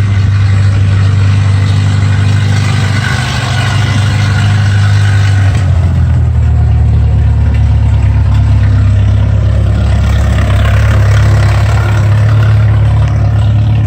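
A large engine running close by, a steady low drone that shifts to a deeper, fuller note about five and a half seconds in.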